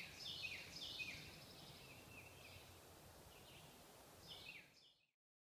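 Faint forest ambience with birds calling over and over in short notes that slide down in pitch. It cuts off suddenly near the end.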